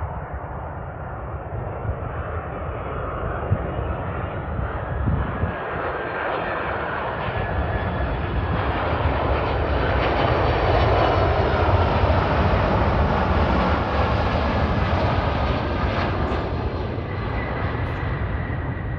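Jet engines of a Boeing 767-300ER airliner coming in to land, the noise building steadily to a peak a little past the middle and then slowly easing off.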